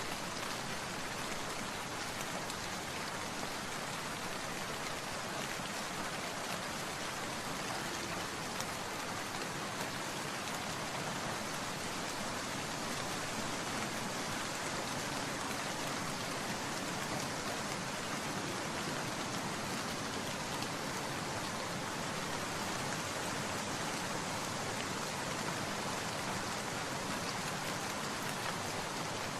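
Steady rainfall: an even patter of rain falling on surfaces, without break or change in intensity.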